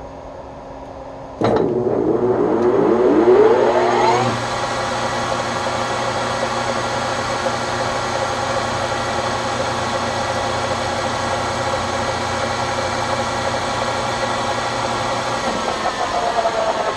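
A phase converter hums, then about a second and a half in the Webb Whacheon lathe's motor switches on with a jolt and the spindle spins up over about three seconds, its pitch rising, before running steadily at 1010 rpm with the quick-change gearbox in neutral. It starts without tripping the phase converter. Near the end the motor cuts out and the pitch begins to fall as the spindle coasts down.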